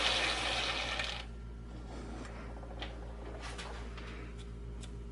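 Metal lathe winding down after a light finishing pass: its running noise fades over about the first second, leaving a low steady hum and a few faint metallic clicks.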